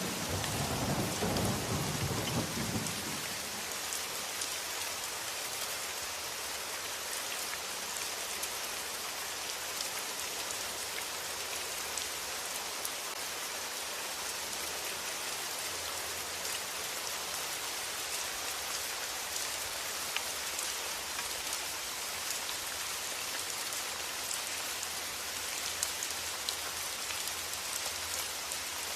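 Steady rain falling, with fine scattered drop ticks. A roll of thunder rumbles low and dies away in the first few seconds.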